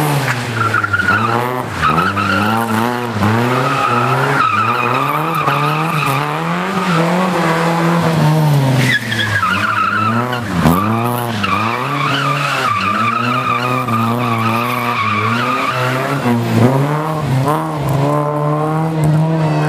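A car engine revving hard, its pitch rising and falling rapidly again and again as the car is driven flat out between cones. Long, high tyre squeals run over most of it as the tyres slide through the turns.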